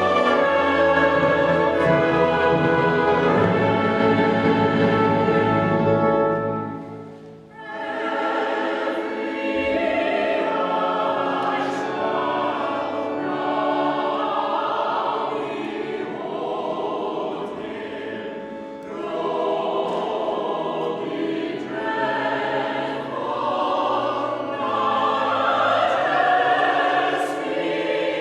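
Choir singing sacred music with instrumental accompaniment. A full held chord dies away about seven seconds in, and after a brief gap the choir starts singing again.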